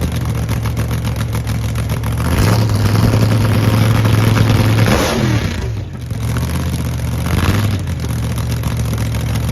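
Car engine idling and being revved, its pitch rising and falling about three times.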